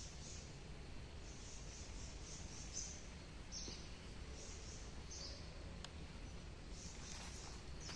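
Forest ambience with birds calling: short, high chirps repeated in little groups every second or so, over a low steady rumble.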